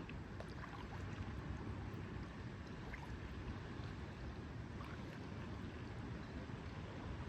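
Lake ambience: a steady wash of gently lapping water over a low, even rumble, with a few faint short high-pitched ticks.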